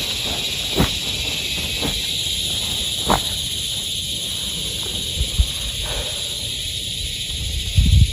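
Steady rain ambience with an even high hiss, broken by a couple of sharp taps and a louder low thump near the end.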